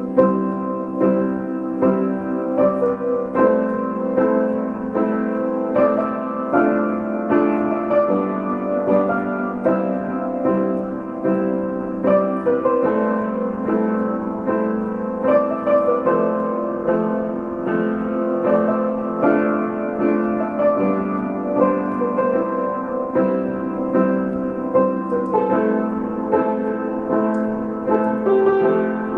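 Piano music: an instrumental piece played as a continuous run of notes, with no singing.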